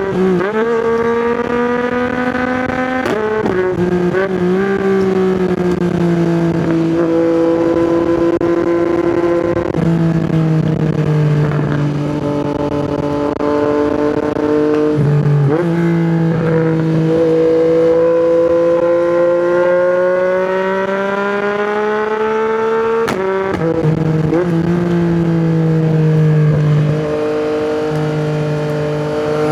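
Yamaha MT-09's three-cylinder engine through an Akrapovic exhaust, heard from the rider's position while riding: the pitch climbs and sags with the throttle, broken by three abrupt gear changes, a few seconds in, about halfway, and about three-quarters of the way through.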